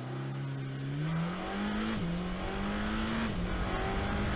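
A car engine accelerating through the gears: its pitch climbs, then drops suddenly at each upshift, twice, before holding steady.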